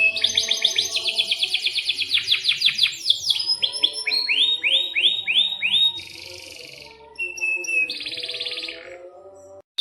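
Domestic canary singing a long song of trills: a fast rattling trill, then a run of slower notes sweeping downward about four a second, then another quick trill. The song cuts off suddenly near the end.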